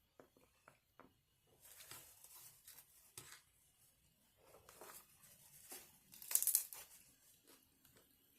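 Paper food wrapping being crinkled and torn open in a few separate bursts, after a few light clicks, with the loudest tear about six and a half seconds in.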